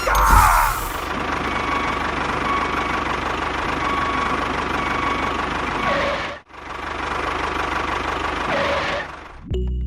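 A small motor running steadily with a thin whine, dropping out briefly a little past halfway. Music starts just before the end.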